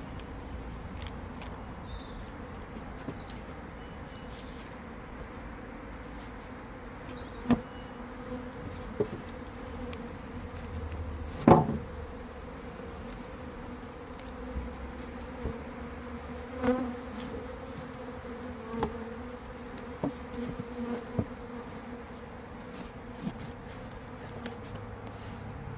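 Honeybee colony buzzing, a steady low hum. Several sharp knocks and clicks sound over it, the loudest about eleven seconds in.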